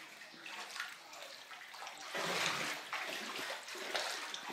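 Floodwater sloshing and trickling, louder from about two seconds in.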